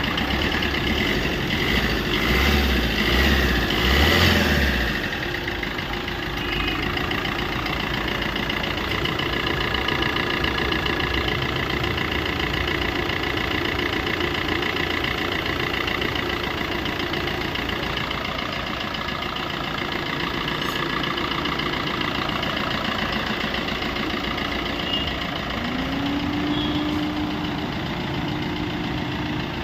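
Car engine idling steadily, with a few low thumps about two to five seconds in and a hum that rises and then holds near the end.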